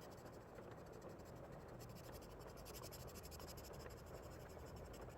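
Faint scratching and rustling of paper as an adult coloring book is handled and its pages turned.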